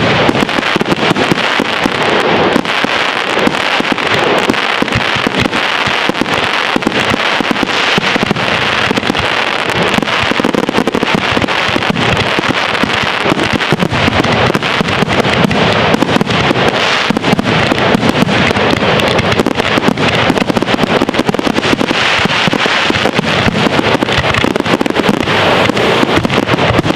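Fireworks display: a dense, continuous barrage of rapid bangs and crackling with no pauses.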